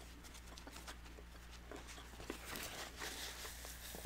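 Faint close-up chewing and mouth sounds from a person eating a crunchy birria taco, with small wet clicks. Near the end a paper napkin is wiped across the mouth.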